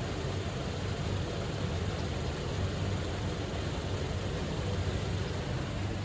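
2022 Toyota Innova Crysta with its 2.7-litre 2TR-FE four-cylinder running steadily: a low, even hum under a constant hiss, with no revving.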